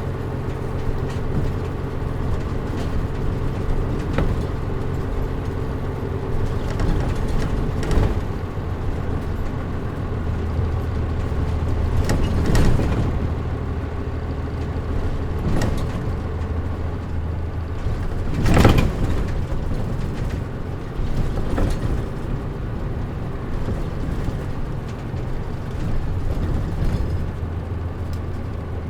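Interior running sound of a Mitsubishi Fuso KL-MP37JM non-step city bus under way: a steady diesel engine drone with the air conditioning off, the deeper engine note swelling for a few seconds near the middle. A few knocks and rattles of the body come through, the loudest about 18 seconds in.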